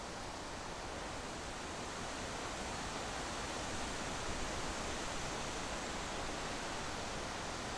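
Steady rushing wind and road noise from a vehicle driving on a road, even and unbroken.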